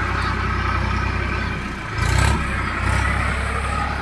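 Deutz-Fahr tractor engine running steadily under way, with a brief louder surge about two seconds in.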